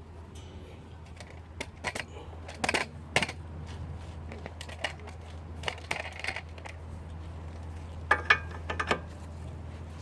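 Irregular metallic clinks and knocks, like tools and metal parts being handled and set down, over a steady low hum; the sharpest clinks come in two clusters, around the middle and near the end.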